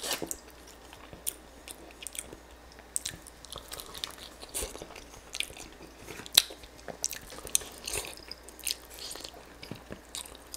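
Biting and chewing crispy-skinned chicken drumsticks: irregular short crunches and crackles of the skin and meat as they are bitten and chewed.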